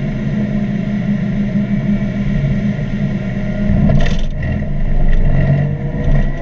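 Mazda NC Miata's 2.0-litre four-cylinder engine running hard on track, heard from inside the car; the engine note changes about four seconds in.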